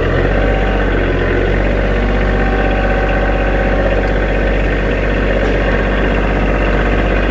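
Kioti DK35 SE compact tractor's diesel engine running at a steady speed.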